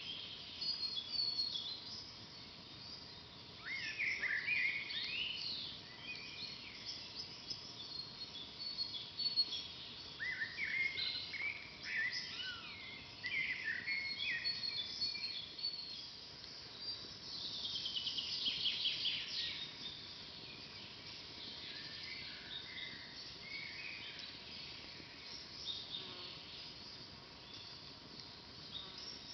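Songbirds singing in woodland: a string of short chirping, warbling phrases, with one bird's fast, ringing trill a little past halfway, over a faint steady hiss.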